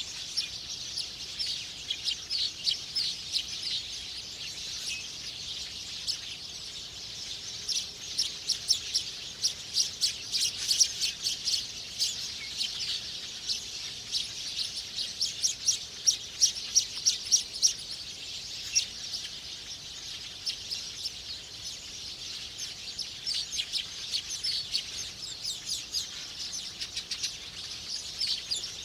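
Small birds chirping: a steady stream of short, high chirps, busiest through the middle stretch, over a constant high background hiss.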